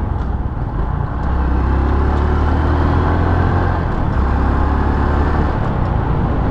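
Honda XRM 125 Fi motorcycle running while ridden, a steady engine and road rumble that grows louder about a second in.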